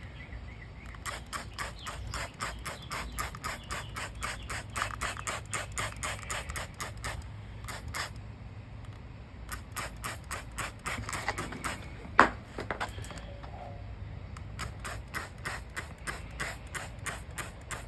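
Handheld trigger sprayer squirting degreaser onto a pressure washer in quick, regular strokes, about four or five a second, pausing for a moment about eight seconds in. A single sharp knock comes about twelve seconds in.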